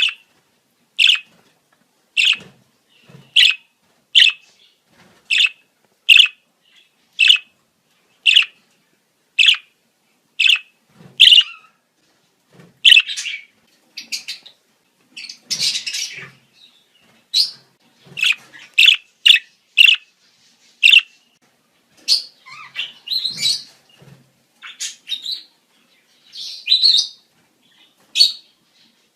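Budgerigars giving breeding-season chirps: short sharp calls at about one a second, turning into busier, more varied chattering about halfway through.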